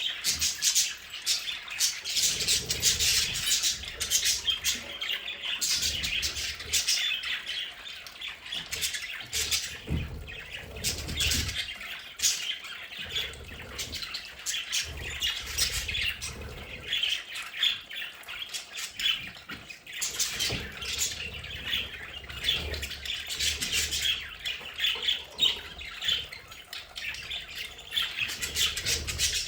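A flock of budgerigars chattering, with a continuous mix of warbling chirps and sharp squawks.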